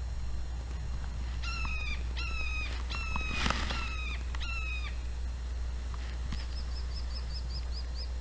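A bird calling in the woods: five harsh, slightly falling calls about half a second apart, then a quick run of short high notes from a second bird near the end. A thump about halfway through.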